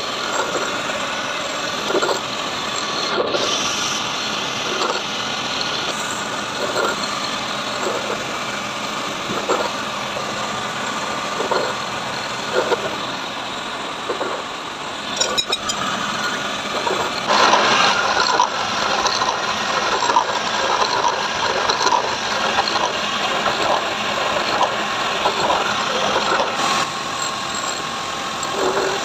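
Heavy metal-machining noise: a machine running steadily, with repeated short knocks every second or two. It grows louder and busier a little past the halfway point.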